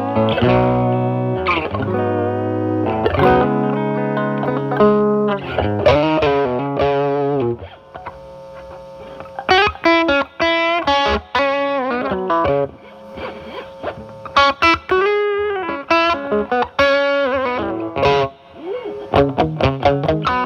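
Electric guitar (Stratocaster with single-coil pickups) through a Timmy overdrive pedal into a Marshall Valvestate amp, with the overdrive cleaned up to a light grit. Ringing strummed chords over held low notes give way, about nine seconds in, to picked single-note lines and short chord stabs.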